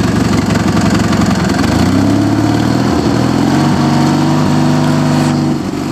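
Two-cylinder 18 hp Briggs & Stratton engine of a lawn tractor running; about two seconds in its speed rises, then holds steady at the higher speed.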